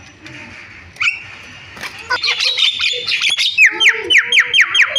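Javan myna (jalak kebo) calling: a hissy rasp and a few sharp notes, then from about three and a half seconds in a fast run of repeated down-slurred whistles, about five a second.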